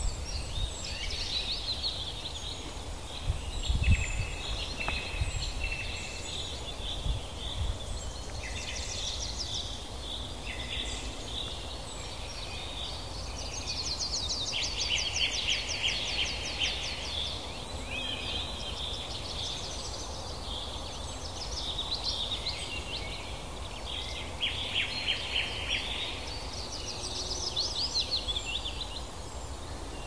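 Several birds singing at once, with repeated chirps and rapid trills, over a low steady rumble. A low thump about four seconds in.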